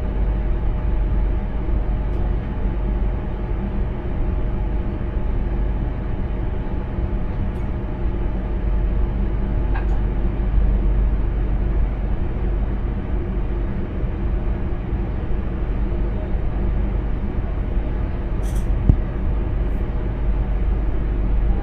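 Intercity train running, heard from inside the driver's cab: a steady low rumble with a faint steady hum. A few short clicks about ten seconds in and again near the end.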